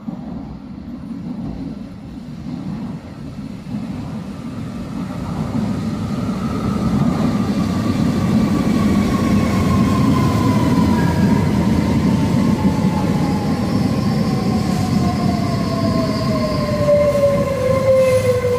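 Trenitalia ETR 104 Pop electric multiple unit pulling into an underground platform. The rumble of wheels on track grows louder as it nears, then holds as the train passes close by, with a whine that falls steadily in pitch as the train slows.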